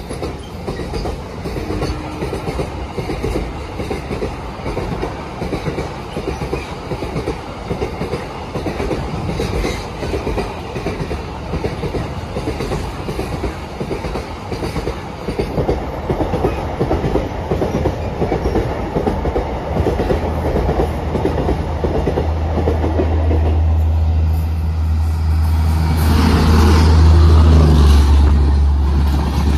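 Container freight wagons rolling past, their wheels clattering steadily over the rail joints. In the last third a low hum builds as a WAP-7 electric locomotive hauling an LHB express approaches on the next track, and the train passes loudest a few seconds before the end.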